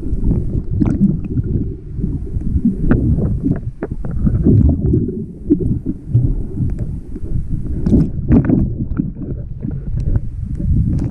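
Sea water sloshing around the microphone while a person wades: a loud, low rumble with scattered small splashes.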